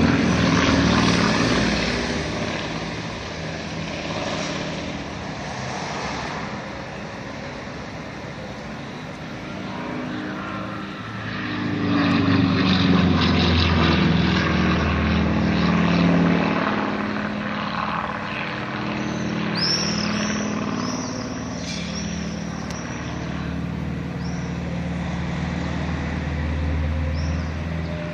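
Propeller engines of light aerobatic planes flying over, the drone swelling and fading as they pass: loudest at the start and again about twelve to sixteen seconds in, with the engine note gliding in pitch.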